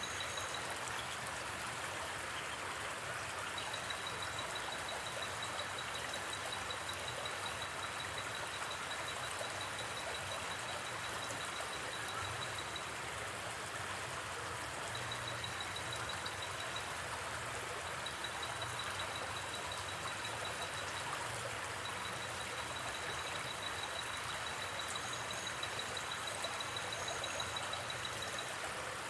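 River water flowing steadily. A high, fast-pulsing chirp of a night insect comes and goes in long runs over it.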